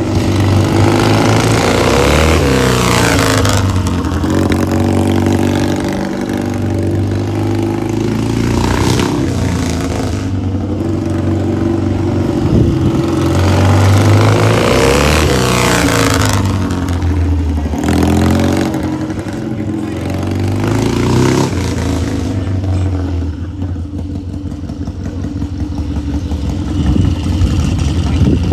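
Triumph-engined Rickman Metisse motorcycle running, revved up and back down about four times, dropping to a steadier idle between blips.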